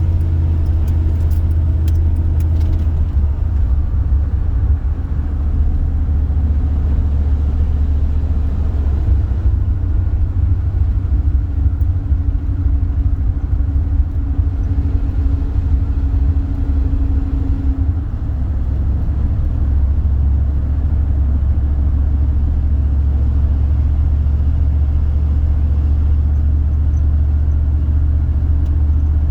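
A car driving, with a steady low rumble of engine and road noise. A faint hum sits on top of it from about a third of the way in until past halfway.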